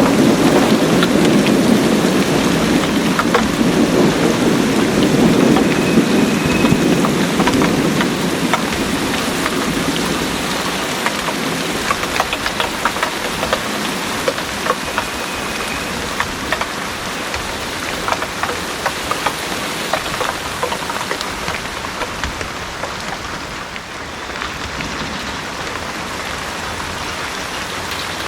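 Heavy rain falling steadily, with many close drops clicking sharply. A low thunder rumble fills the first several seconds, then fades out, leaving the rain alone.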